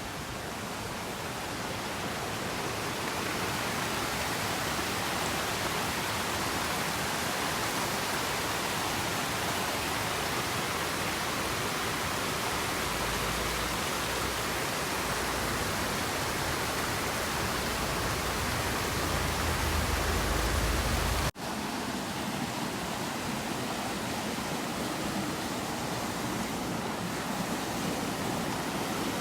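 Steady, loud rush of water from the Minoo Falls waterfall, with one abrupt split-second break about two-thirds of the way through before the same rush resumes.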